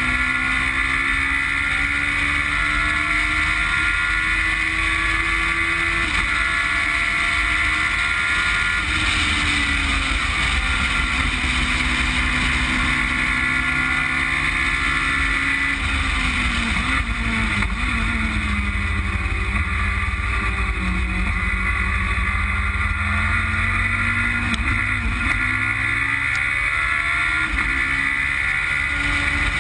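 Westfield Megabusa's Suzuki Hayabusa four-cylinder motorcycle engine driven hard on track, its note climbing under acceleration, dropping about six seconds in, sinking low around the middle and then building again.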